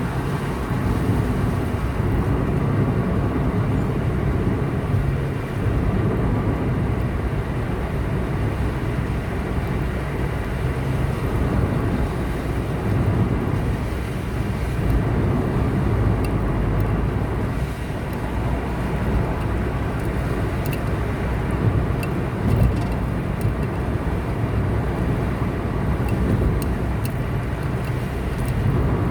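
Car driving along a highway: steady low rumble of tyres and engine, with faint scattered clicks in the second half.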